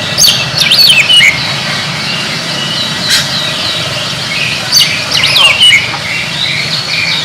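Oriental magpie-robin (kacer) singing in two loud bursts of varied, sweeping whistled phrases, one just after the start and one about five seconds in. Its strong singing after the moult shows it is back in form. Softer chirps from other birds and a low steady hum run underneath.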